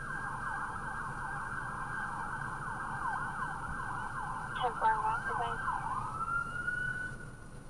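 Emergency-vehicle siren heard over a radio transmission, going in fast repeated yelps, then rising into a long wail near the end before cutting off. A brief voice breaks in about five seconds in.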